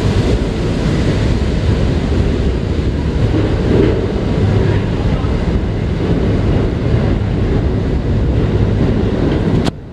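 Steady low rumble of a departing Westinghouse-Amrail R68 subway train running away from the station, with no distinct wheel clicks, cutting off abruptly near the end.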